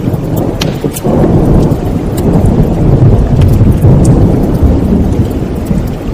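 A long rumble of thunder that swells about a second in and rolls on, over steady rain and the scattered pops and crackles of a fireplace fire.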